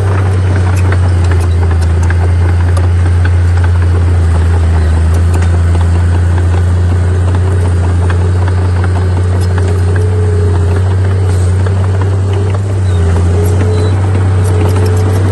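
Heavy diesel engine of earthmoving machinery running steadily: a loud low drone, with scattered light clicks and rattles over it.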